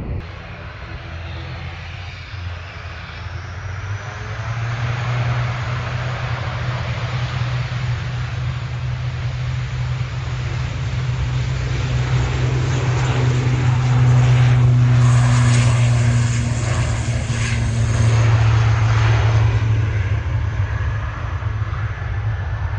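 Airliner engines passing on a runway at Manchester Airport, building to the loudest point about two-thirds of the way through, then easing off.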